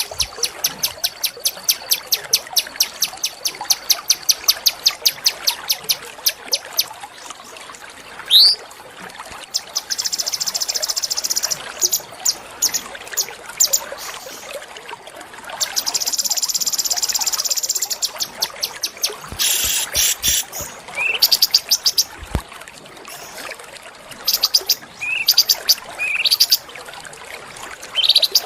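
Small songbirds singing: a fast run of sharp, high repeated chips, about four a second, for the first seven seconds, then dense high trills and short rising whistles.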